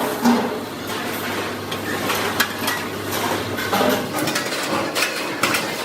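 Irregular metallic clinks, taps and knocks of steel parts and tools being handled and struck, over a low steady hum that stops about four seconds in.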